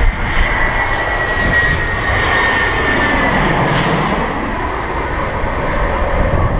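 Landing aircraft's engines passing close by, a steady loud noise with a high whine that slowly falls in pitch over the first few seconds and a deeper rumble swelling in the middle.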